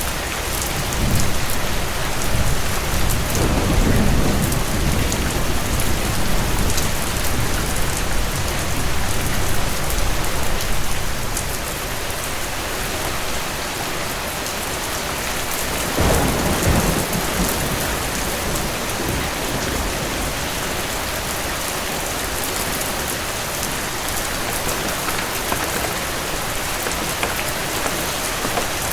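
Steady heavy rain falling, with low rolling thunder rumbling twice: once about a second in and once about halfway through.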